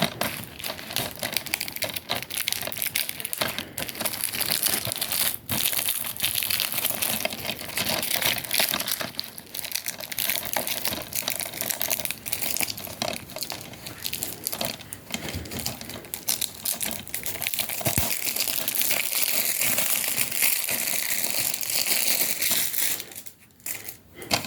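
Plastic shrink-wrap being torn and peeled off a DVD case, a continuous crinkling crackle that stops about a second and a half before the end.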